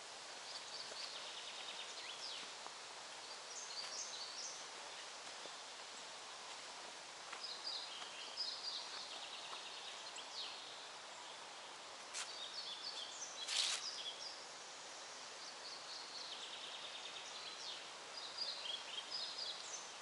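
Songbirds singing in a leafy forest: short, high chirping phrases repeating every few seconds over a steady hiss. A few sharp clicks, the loudest about two thirds of the way through.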